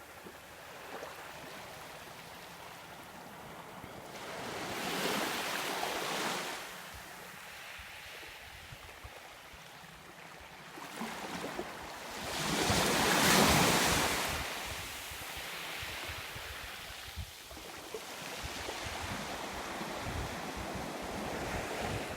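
Black Sea surf breaking on the shore, a steady rush that swells into two big waves crashing about five and thirteen seconds in, the second the loudest. Wind rumbles on the microphone through the second half.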